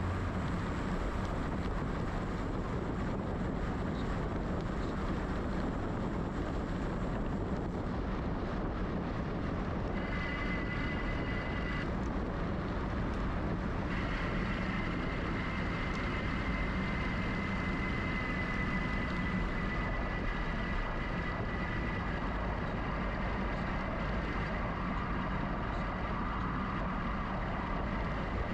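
Steady wind rush and tyre noise from a GoCycle GX electric bike being ridden. A high electric-motor whine comes in about ten seconds in, drops out briefly, and then holds from about fourteen seconds on.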